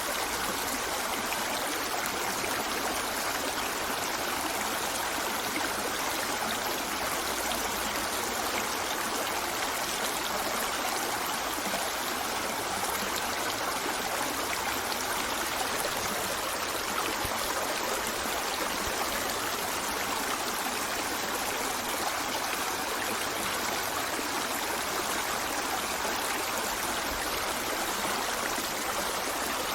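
A small river or stream flowing steadily over rocks, a continuous even rush of water without breaks.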